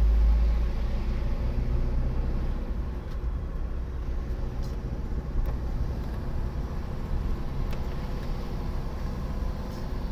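Vehicle engine and road noise while driving, a steady low rumble that is heaviest for the first second and then eases.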